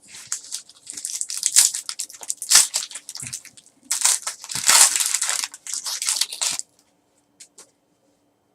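Wrapper of a trading-card pack being torn open and crinkled by hand, a dense crackling rustle that stops about six and a half seconds in, followed by a few faint clicks.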